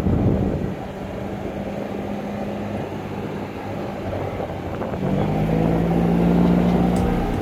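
An engine running steadily with a low hum. About five seconds in, its pitch shifts and it gets louder.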